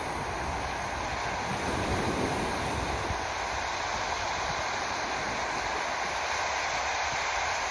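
Steady rushing of sea surf mixed with wind buffeting the microphone, with uneven low rumbling.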